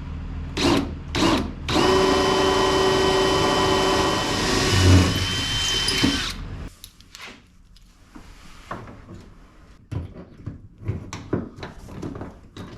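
Power drill boring through aluminum angle. Two short trigger bursts come first, then a sustained run of about four seconds with a steady whine. The drill stops about six seconds in, and light knocks and clatter of handling the metal follow.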